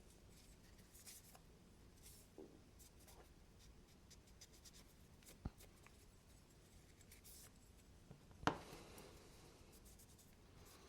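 Faint rubbing of small knife parts being wiped clean with alcohol, with a small click about halfway and a sharper click near the end as a part is set down or handled.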